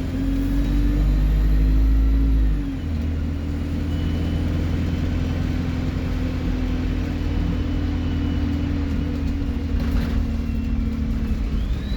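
Alexander Dennis Enviro 200 bus's diesel engine running on the move: a deep drone that eases off about three seconds in, then holds steady. A faint high turbo whistle sits over it, rising and falling again near the end.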